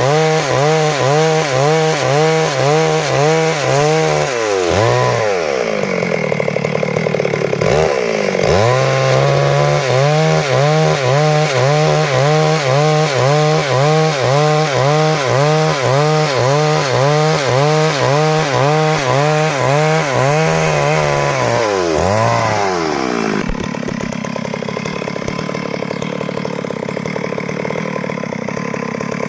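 Stihl MS 382 two-stroke chainsaw at full throttle cutting wood along a board. The engine pitch wavers up and down about one and a half times a second. It dips and recovers twice in the first several seconds, then settles to idle about 23 seconds in.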